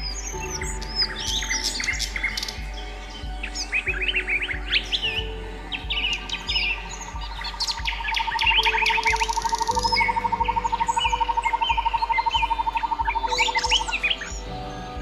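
Many small birds chirping and calling in quick rising and falling notes, over a soft music bed with a steady low beat. From about eight seconds in, a fast even trill runs for about six seconds.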